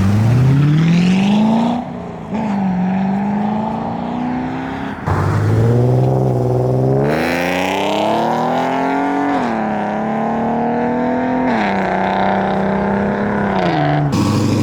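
A car's engine accelerating hard, revving up and dropping back in pitch several times as it shifts through the gears.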